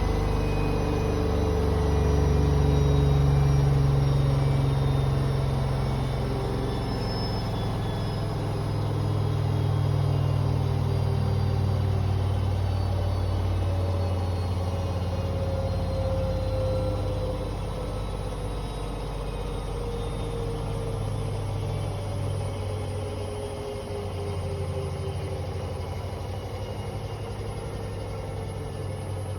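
Hoover H-Wash 500 washing machine winding down from a 1600 rpm spin: a low drum rumble with a motor whine falling slowly in pitch, fading gradually as the drum slows.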